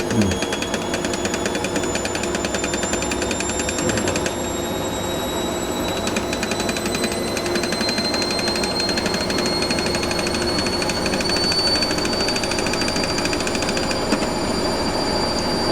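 Hoover SIX Inter@ct AAA Whisper 1600 washing machine spinning up: its motor whine rises slowly while the drum makes a fast, even rattle. The drum is ramping through its lower spin speeds, from about 400 towards 800 rpm.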